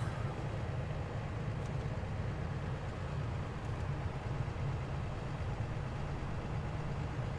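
Komatsu excavator's diesel engine running steadily with a low rumble, a couple of faint clicks over it.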